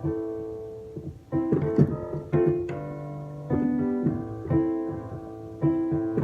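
Solo piano playing slow chords with no voice, each chord struck and left to ring and fade before the next.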